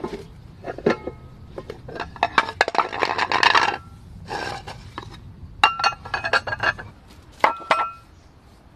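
Camp cookware and utensils clinking and scraping: a series of sharp clinks with short rings, with a busier stretch of rattling and scraping in the middle.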